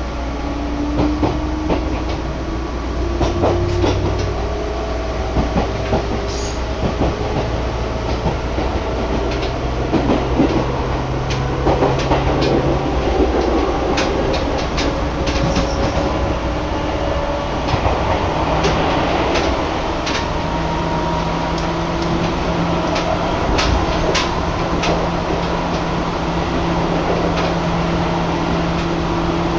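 Electric commuter train running, heard from inside the carriage: a steady low rumble with a motor whine that rises in pitch over the first several seconds and then holds, and wheels clicking over rail joints.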